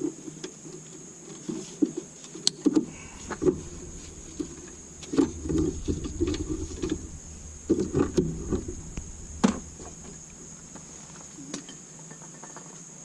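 Hand work on an engine bay: irregular clicks, knocks and rattles of tools and parts being handled, busiest in two spells around the middle, over a steady high-pitched hiss.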